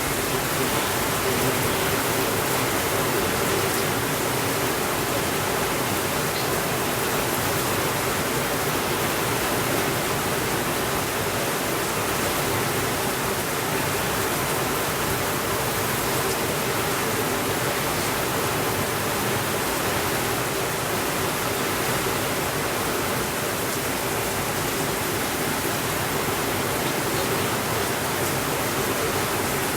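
Steady rainfall, an even hiss with no thunder, with a few faint ticks scattered through it.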